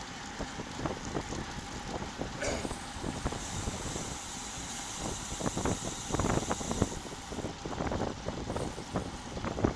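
Wind buffeting the action camera's microphone on a moving road bike, an uneven gusty rumble with road noise under it. For about three seconds in the middle a steady high hiss joins in.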